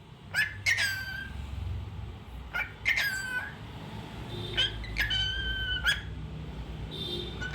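Cockatiel whistling a series of short calls, some sliding up and then held on one note, with short pauses between them, over a steady low hum.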